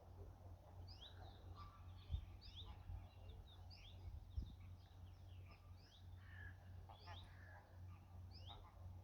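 Birds chirping: many short, high, downward-slurred peeps, scattered irregularly throughout, over a faint steady low rumble.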